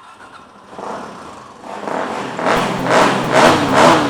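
2009 Suzuki DR-Z400E single-cylinder four-stroke dirt bike engine, rising from a low running sound to repeated revving surges as the bike accelerates.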